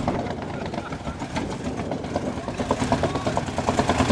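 A vehicle engine running with a rapid pulsing exhaust beat, getting a little louder near the end.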